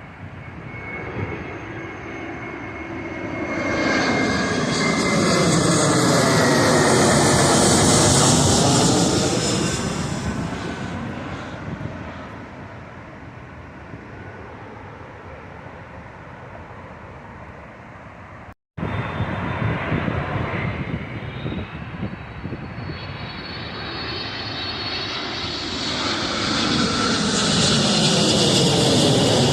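Low-flying airplanes passing overhead, one after another. The first approaches with a thin high whine over a rushing engine noise, is loudest about eight seconds in, then fades. After a sudden break partway through, a second plane approaches and grows louder toward the end.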